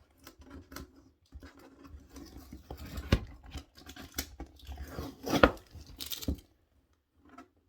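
A cardboard subscription box being handled and pried open by hand: scattered taps, scrapes and crinkles of cardboard and packaging, with a short tearing sound about six seconds in.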